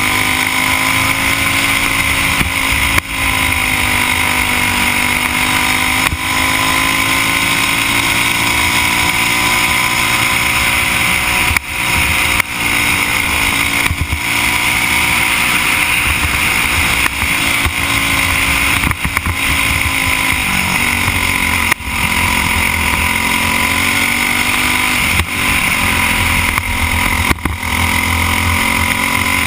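Briggs & Stratton Animal single-cylinder four-stroke kart engine running hard through laps, heard from the driver's helmet. Its pitch sags and climbs back again and again as the kart goes through the corners, with short drops in loudness every few seconds.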